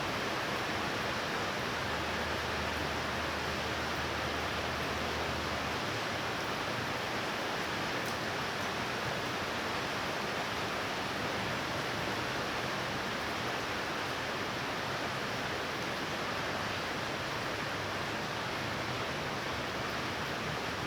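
Heavy rain from a thunderstorm falling steadily, an even hiss with no let-up. A faint low hum sits under it for a few seconds near the start.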